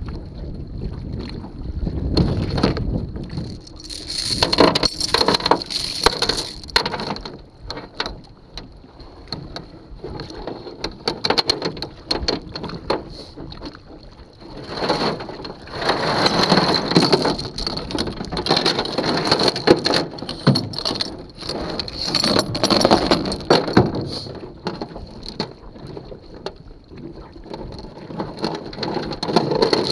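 Strong wind gusting across the microphone, swelling and easing in surges every few seconds, with scattered sharp clicks and knocks.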